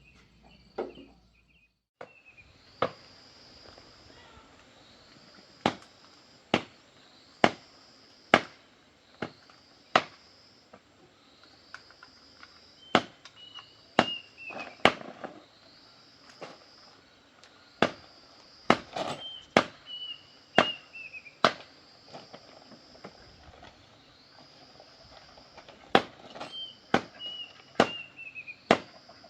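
Hammer blows driving nails, sharp strikes coming singly and in quick runs with short pauses. Under them, a high chirp repeats about every second and a half, and a falling bird call sounds a few times.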